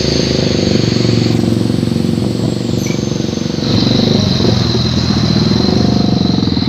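Truck diesel engine running through a loud Sulawesi-style 'chung takalar' exhaust, a deep, rapid 'dobol dobol' pulsing that grows louder about four seconds in.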